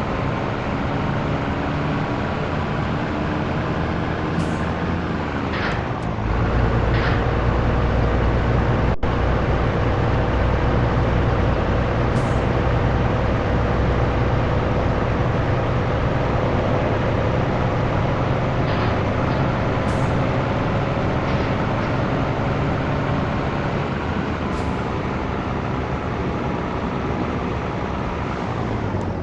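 Scania T113 truck's diesel engine running on the road. About six seconds in the engine note shifts down and runs louder, like a gear change under load. Several short air hisses come from the truck's air system.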